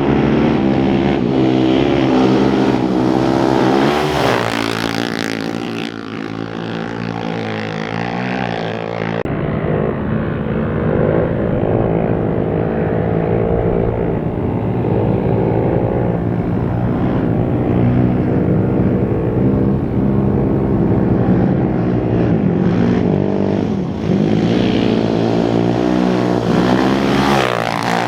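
Off-road racing motorcycle engines running hard and revving, changing pitch as the bikes pass, with abrupt jumps in the sound where shots are cut together.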